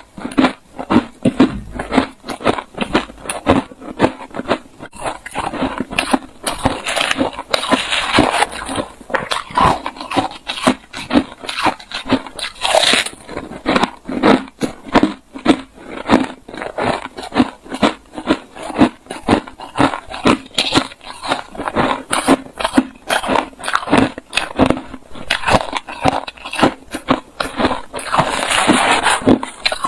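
Hard crunching of refrozen crushed ice being bitten and chewed close to the microphone, a few sharp crunches each second without a break.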